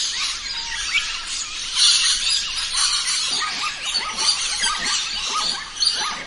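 A dense chorus of many birds chirping and calling at once, with a quick run of short falling chirps in the second half.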